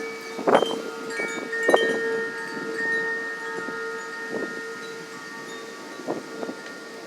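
Wind chimes ringing in the wind: a few sharper strikes, with long, steady ringing tones between them.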